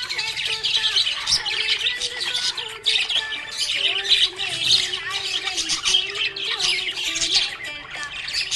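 Several budgerigars chirping and squawking continuously in a dense chatter of overlapping calls.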